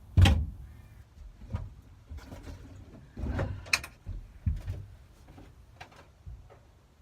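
Scattered knocks, clunks and rattles of hands and parts being worked behind a car's dashboard. The loudest is a sharp knock just after the start, with another cluster of clatter about three to four seconds in.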